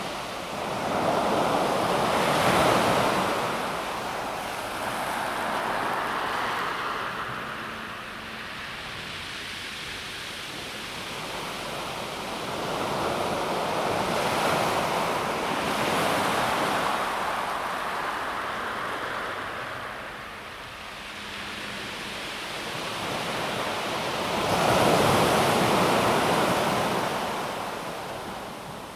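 Calm sea waves washing onto a pebble beach, rising and falling in three slow surges about ten seconds apart, the loudest near the start and near the end.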